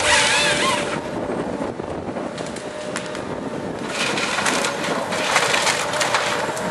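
Tree-felling harvester at work: its engine runs steadily while the felling head crushes and splinters timber, with sharp cracking and snapping of wood in the second half.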